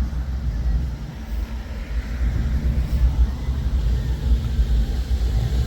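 A car engine running with a low, unsteady exhaust rumble.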